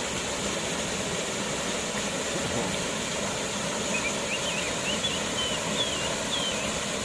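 Waterfall rushing in a steady, even roar of falling water. A few faint high chirps come through about two-thirds of the way in.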